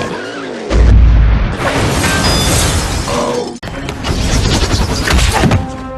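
Animated action-scene sound effects: a heavy boom about a second in, then a run of crashes and impacts with a music score underneath, breaking off abruptly a little past halfway before more crashing.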